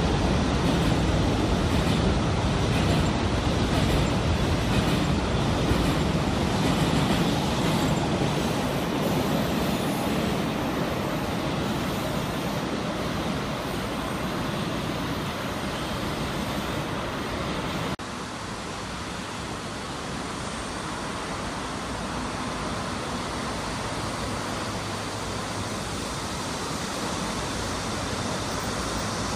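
KTX high-speed train rolling past close by on an elevated track: a heavy, even rumble of wheels on rail that fades over the first ten seconds into a steadier, more distant rumble. It cuts off suddenly partway through to a quieter, steady distant rumble with a faint low hum, as a train crosses a river bridge far off.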